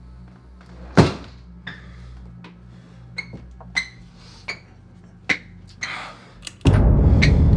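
A sharp knock or thud about a second in, followed by a scattering of lighter clicks and knocks over a low steady hum. A loud, dense sound starts near the end.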